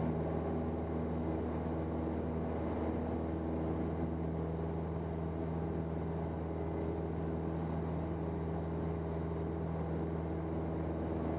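Cessna 172N's four-cylinder Lycoming engine and propeller running steadily at full takeoff power during the climb-out, one even drone that holds its pitch throughout.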